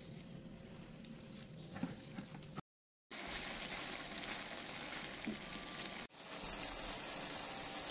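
Squid and tofu in sauce sizzling faintly in a wok as a spatula stirs it, beginning after a brief silent break about three seconds in. Before the break, only faint handling noises with a couple of small clicks.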